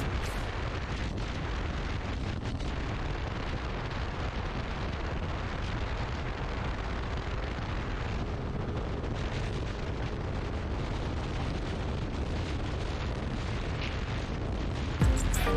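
Steady wind rush on the microphone of a moving motorcycle: an even roar with no distinct engine note, growing louder just before the end.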